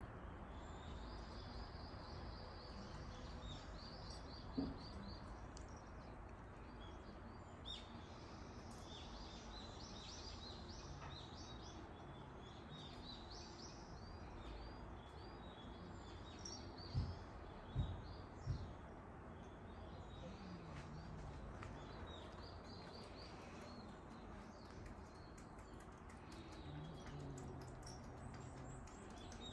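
Small birds chirping in short rapid series, repeated throughout over a steady outdoor background hiss, with a few dull knocks, three of them close together near the middle.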